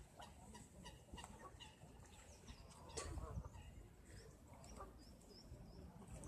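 Faint bird calls: short high chirps, with a run of small repeated calls near the end.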